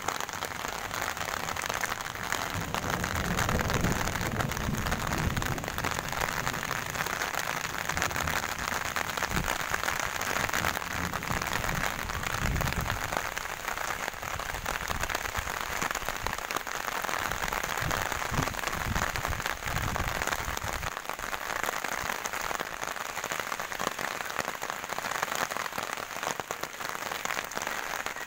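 Steady rain falling, a constant even hiss, with a low rumble that comes and goes through the first two thirds.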